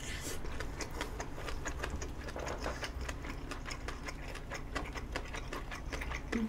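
Close-miked chewing of a mouthful of rolled omelette: a quick, steady run of small wet clicks and smacks from the mouth. A brief low sound near the end is the loudest moment.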